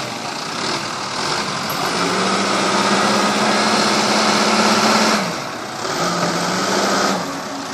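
Heavy diesel engine working hard under load during a mud recovery: it is pushed up to steady high revs for about three seconds, eases off, then is pushed again briefly.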